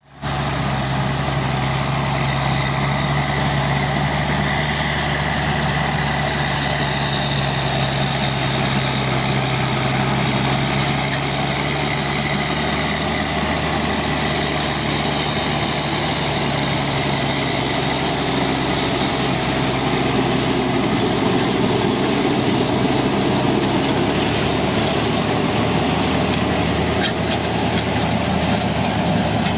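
Heavy tractor engine running steadily, a constant low drone that holds one pitch, slightly shifting in the second half.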